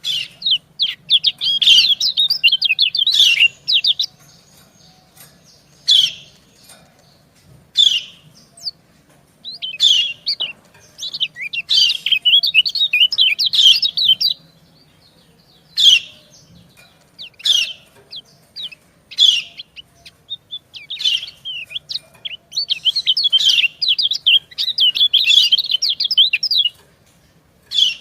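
White-eyes (kecial kuning) calling: single sharp 'ciak' calls a second or two apart, alternating with three long runs of rapid, high twittering.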